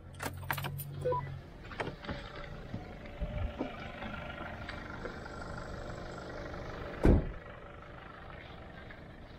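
Four-wheel-drive vehicle engine running steadily on a sand track, with a few clicks near the start. One brief loud thump about seven seconds in.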